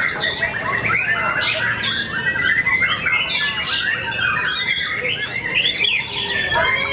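Many caged songbirds singing at once, a dense, continuous tangle of overlapping chirps, whistles and rapid trills from several birds competing.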